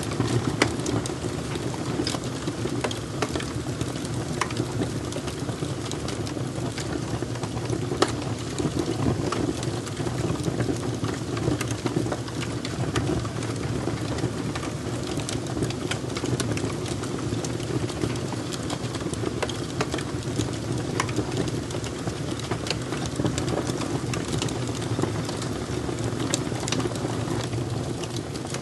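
Fire crackling, with frequent short sharp pops and snaps over a steady low rush of the flames.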